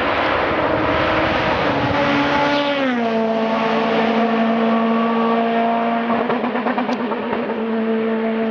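Race car engine at high revs passing by. Its pitch drops about three seconds in, then holds steady as the car pulls away.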